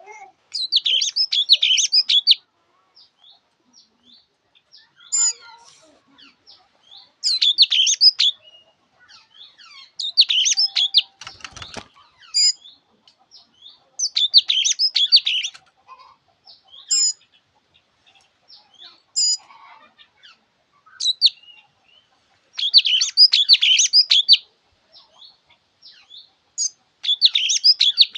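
Thanh tước songbird singing: bursts of rapid, high twittering song every few seconds, each lasting a second or two, with single chirps in between. A brief low knock sounds about halfway through.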